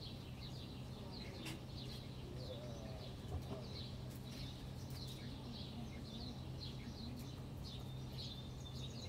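Small birds chirping, short high calls repeating several times a second throughout, over a steady low hum, with a faint click about one and a half seconds in.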